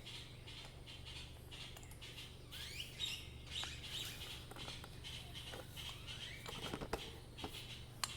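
Birds chirping repeatedly in the background over a steady low hum, with a few sharp clicks and small knocks near the end as parts of a small engine's carburetor are handled.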